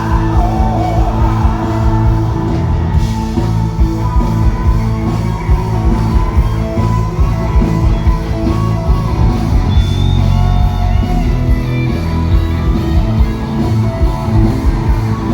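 Live rock band playing loudly, with singing and electric guitar over a heavy bass and drum beat.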